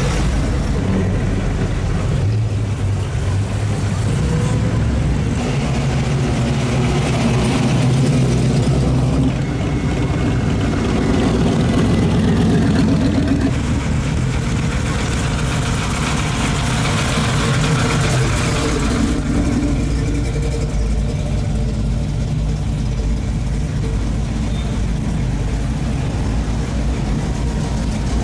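Engines of classic cars and hot rods running at low speed as they cruise past one after another, the sound swelling gently as each passes close by.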